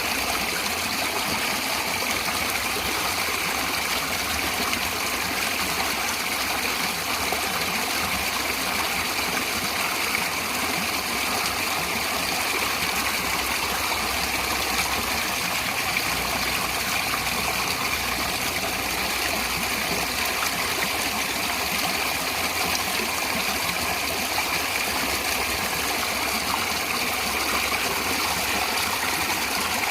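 Natural flowing water, such as a stream: an even, unbroken sound of running water, heavy in hiss, with no change in level.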